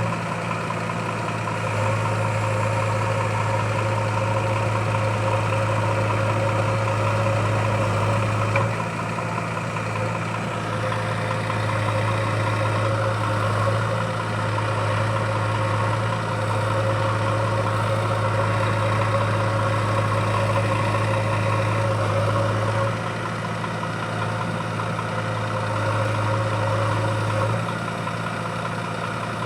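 Heavy diesel engine of soil-loading machinery running steadily with a deep hum, easing off briefly about nine seconds in and again twice near the end as the load changes.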